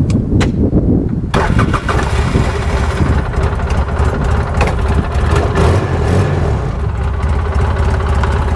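Polaris Ranger UTV engine cranking on its starter for about a second, catching and then running steadily at idle. It is a quick, strong start on a freshly installed higher-cranking-amp battery.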